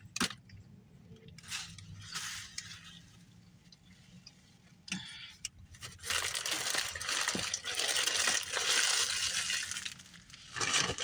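Crinkling and rustling of fast-food paper and plastic packaging. Brief handling rustles come first, then a denser crackling stretch from about six seconds in until just before the end, with a few light clicks and clinks.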